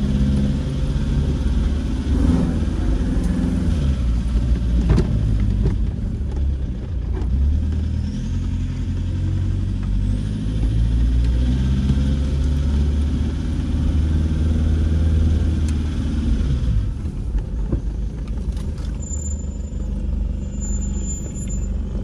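Car engine running as the vehicle is driven, its pitch rising and falling with the revs and dropping off about three-quarters of the way through.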